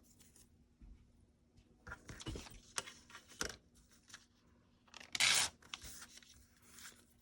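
Packing paper being handled and torn in short rustling bursts, the loudest about five seconds in.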